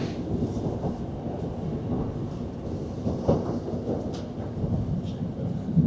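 Class 156 diesel multiple unit running along the line, heard from inside the carriage as a steady low rumble, with a few faint clicks in the second half.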